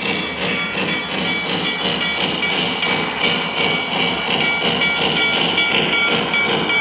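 O gauge model train running on the track: a steady rolling rumble with a fast, even rhythm of clicks.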